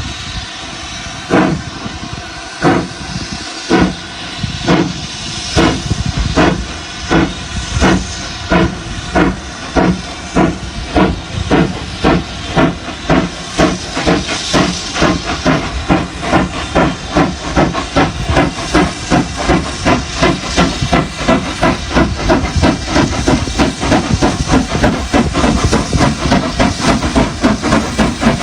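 Steam locomotive pulling away, its exhaust chuffing over a steady hiss of steam. The beats start about a second apart and quicken steadily to about three a second as it gathers speed.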